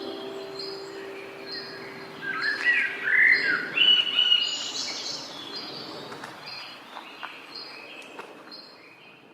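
Songbirds chirping: one bird repeats a short high note a little more than once a second, while louder, varied calls burst in about two to five seconds in. The whole fades out near the end.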